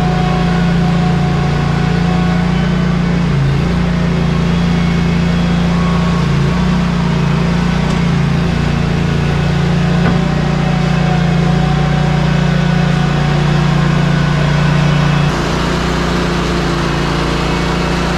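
Ready-mix concrete truck's diesel engine running steadily during the pour, with a slight shift in its note about fifteen seconds in.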